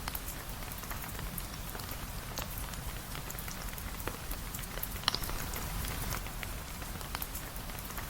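Steady rain falling on a surface, with scattered sharp drips and ticks of individual drops; one stands out about five seconds in.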